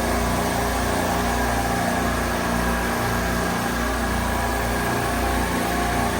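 Steady hum of running refrigeration machinery: a constant drone with several unchanging tones over a noise hiss, and no starts or stops.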